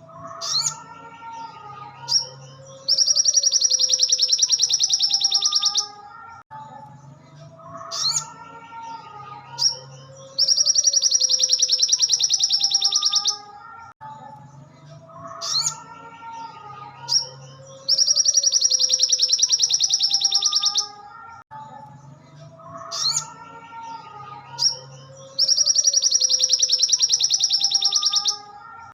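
Looped recording of a sogon (sogok ontong) songbird: a loud, rapid buzzing trill about three seconds long, recurring about every seven and a half seconds, between sharp high chirps, over softer gliding whistled notes.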